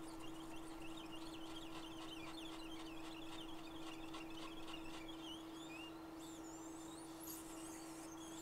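Birds chirping faintly: a quick, busy run of small chirps, then a few higher whistled glides in the second half. A steady hum runs underneath.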